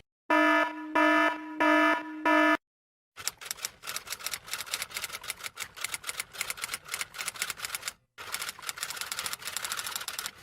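A buzzer-like electronic alarm sounds four short, harsh beeps on one low pitch. After a short pause, fast irregular clicking, like rapid typing, runs on with a brief break about eight seconds in.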